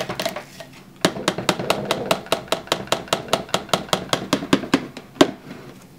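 A utensil stirring soap batter in a small cup by hand, clicking against the sides about six times a second, with one louder knock near the end.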